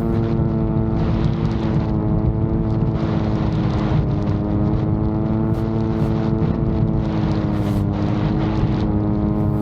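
VTOL drone's propulsion droning at a steady pitch that sags slightly through the middle, over a low rumble of wind buffeting the microphone.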